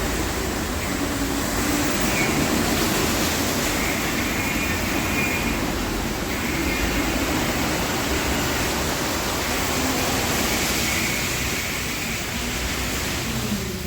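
Automatic car wash machinery running, heard from inside the car: a loud, steady rush of water spray and machinery, with a faint high whine that comes and goes.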